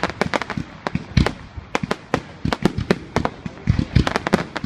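Fireworks going off: a rapid, irregular run of sharp bangs and cracks, with a heavier thud about a second in and a denser cluster near the end.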